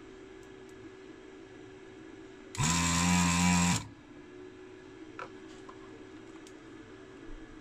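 A small electric motor buzzes loudly for about a second, over a steady faint hum.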